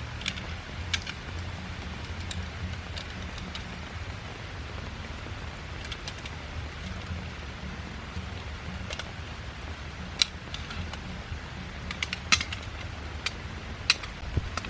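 Steady rain, with scattered sharp ticks of drops landing close by, a few of them louder around the middle and near the end.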